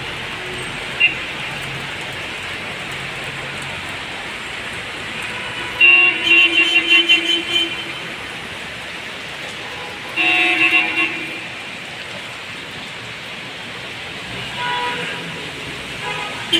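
Car horns honking: a string of toots for about two seconds around six seconds in, and another burst about ten seconds in. Underneath is a steady hiss of heavy rain and street traffic.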